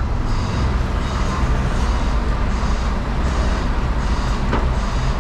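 Diesel engine of an articulated lorry running steadily at low revs as the truck reverses slowly.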